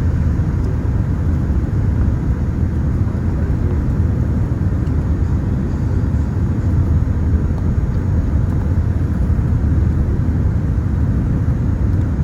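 Steady low rumble of engine and airflow noise inside the cabin of a Boeing 787-10 airliner on approach.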